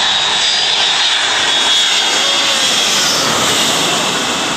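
Airliner passing low overhead: a loud, steady engine roar with a high whine, the pitch sliding in the middle, beginning to fade near the end.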